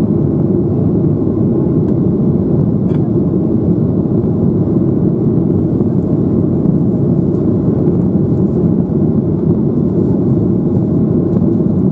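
Boeing 737-800 jet airliner with CFM56-7B engines, a loud, steady low rumble of engine and airflow noise.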